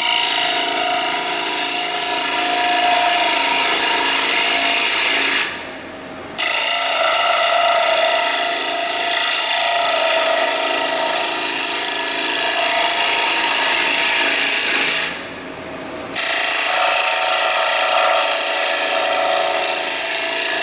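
Round carbide cutter of a hollowing tool scraping wood inside a bowl spinning on a lathe, a steady loud cutting noise. The cut breaks off twice for about a second, about five seconds in and again about fifteen seconds in.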